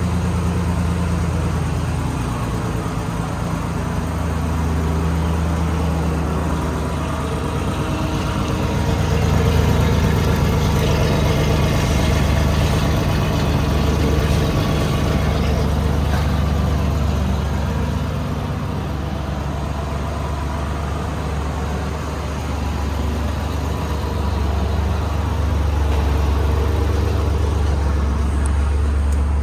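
2008 Jeep Wrangler's 3.8-litre V6 engine idling steadily.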